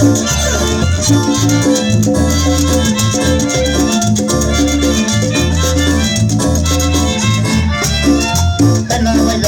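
A chanchona string band playing live dance music. Repeated bass notes keep a steady beat under the melody instruments.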